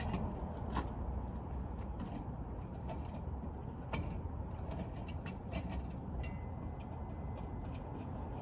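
Wheel lug nuts being worked loose by hand with a wrench: irregular metallic clicks and ticks, with a short thin metallic ring about six seconds in.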